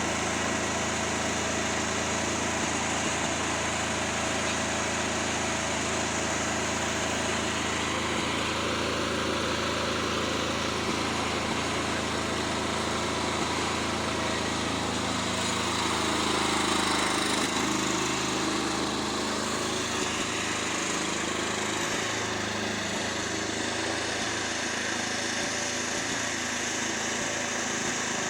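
Lawnmower's small engine running steadily. About halfway through, its speed shifts and it gets a little louder, then it settles back to a steady run.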